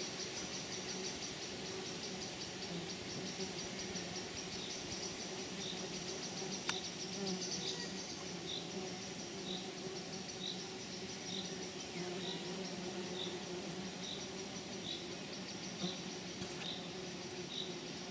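Insects chirring steadily in a high, fast-pulsing buzz. From a few seconds in, a short high chirp repeats about once a second. A single sharp click sounds near the middle.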